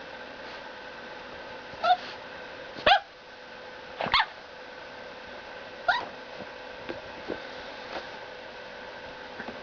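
Seven-week-old Boxer puppy giving four short, high-pitched barks over a steady hum: the first about two seconds in, the next two at one-second gaps, and a last one two seconds later.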